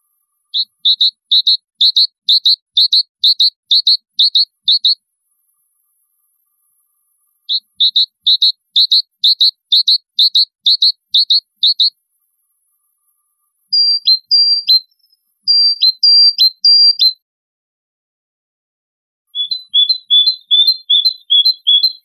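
A bird singing in separate phrases: a run of about a dozen quick high chirps, a pause of a few seconds, and the same run again. Then come a few downward-slurred whistled notes, and near the end a faster run of paired chirps.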